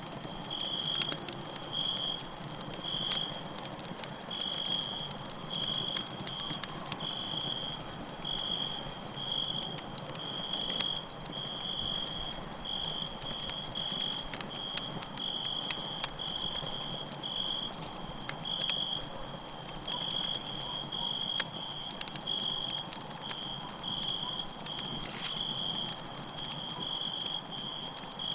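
Crackling campfire with frequent sharp pops over a steady hiss of burning, and crickets chirping in short, high-pitched chirps at one steady pitch, about one or two a second.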